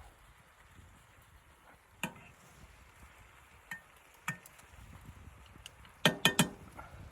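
Hard objects knocking and clinking: a few single clicks, then three loud knocks in quick succession near the end, some with a brief ring.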